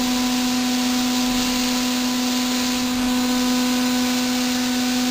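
Milling machine slot-milling brass with a 6 mm cutter: a steady, unchanging machine hum with a hissing wash over it.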